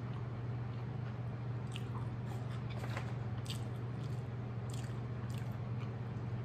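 Close mouth sounds of a person chewing a mouthful of burger: a scatter of short wet smacks and clicks in the middle seconds, over a steady low hum.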